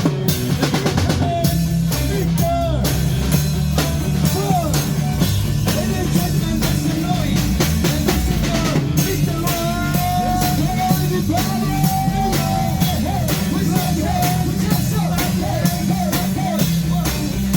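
Live band playing an upbeat rock-style song: a drum kit keeps a steady beat under a bending melody line.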